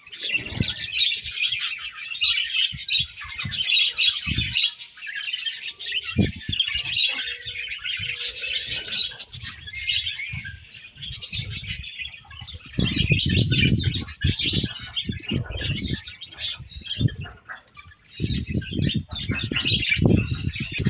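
A colony of budgerigars chirping and chattering together in a continuous, dense warble. Bouts of low rumbling noise come in under the chatter in the second half.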